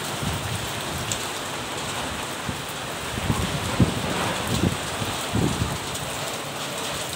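Steady rain falling, an even hiss throughout, with a few short low knocks between about three and six seconds in.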